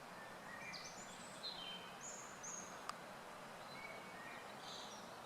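Faint woodland birdsong: short high chirps and quick sliding notes from small birds over a steady outdoor hiss, with a single sharp click about three seconds in.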